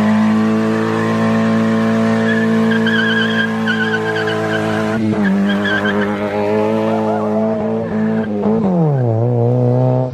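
Car engine held at high revs during a skid, with tyres squealing; about nine seconds in the revs drop to a lower steady note.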